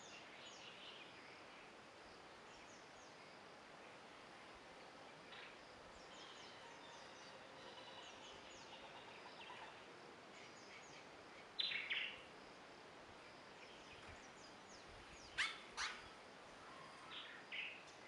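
Faint background hiss with scattered short, high bird chirps. The loudest are a quick pair about two-thirds of the way through and a few sharp chirps near the end.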